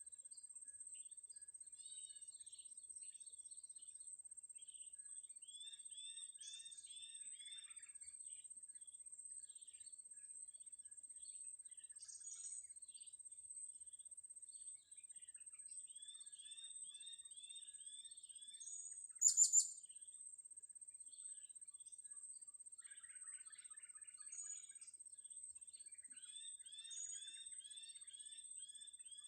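Small birds chirping: runs of quick, high, falling chirps, several a second, repeat on and off over a steady high-pitched whine. About 19 seconds in, three sharp, loud, shrill notes come in quick succession.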